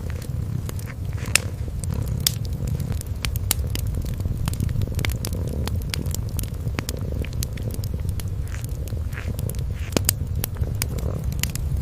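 A cat purring steadily with a low, pulsing rumble, over a wood fire crackling with scattered sharp pops, two of them louder: about a second and a half in and about ten seconds in.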